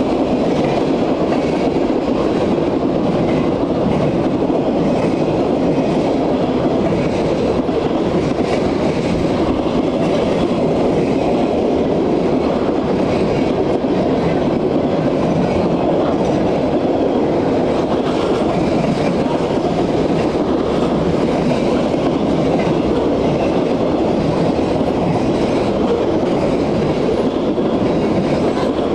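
Cars of a CSX mixed freight train rolling past: a steady rumble and clatter of steel wheels on the rails, with no change in level.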